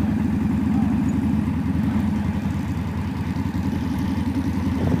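Motorcycle engine running steadily, a low, even pulsing hum with no change in speed.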